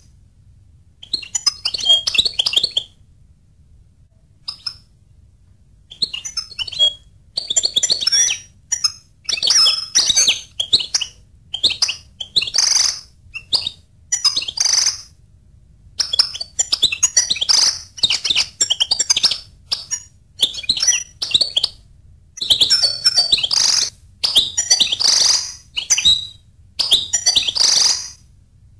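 Goldfinch singing: bursts of rapid, high twittering phrases, each one to three seconds long, broken by short pauses, with a longer lull a few seconds in.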